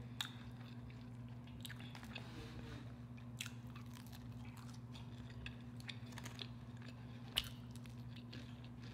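Close-up chewing and crunching of fried french fries, with sharp crisp clicks scattered irregularly through the chewing, over a steady low hum.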